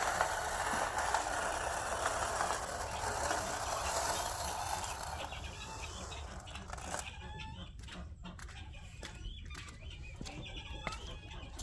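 Chickens clucking and calling. Over the first half there is a steady rushing hiss that fades out about six seconds in, leaving short clicks and bird calls.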